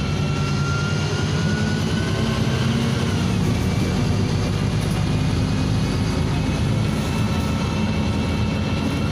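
Interior of a NefAZ 5299 city bus under way: its Cummins ISBe diesel engine and drivetrain running steadily, with a thin high whine that rises slowly and then changes about three seconds in.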